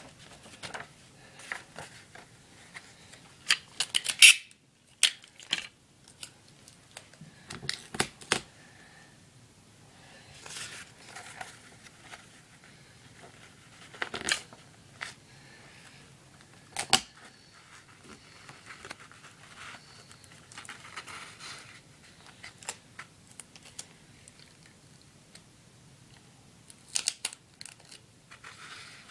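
Sticky tape being pulled off the roll and torn, with paper rustling as it is handled: short rips and crinkles now and then, the loudest about four seconds in.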